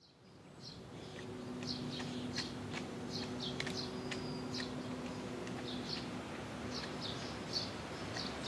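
Small birds chirping, many short high calls scattered throughout, over a steady outdoor background with a faint low hum. The sound fades in over the first second or so.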